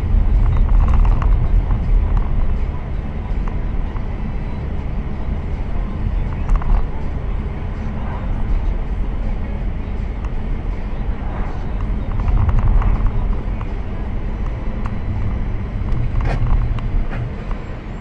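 Vehicle on the road, a steady low engine and road rumble, with one sharp click near the end.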